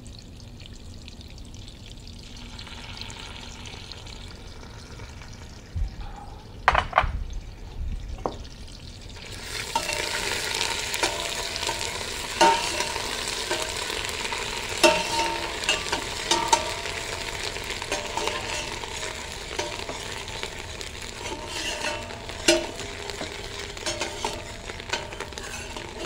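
Ginger-garlic paste frying in butter in a stainless steel saucepan, stirred with a metal ladle. A few knocks come first, then about nine seconds in the sizzling grows much louder and runs on steadily, with frequent clicks of the ladle against the pot.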